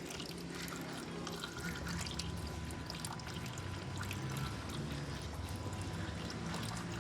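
Water being poured in a steady trickle.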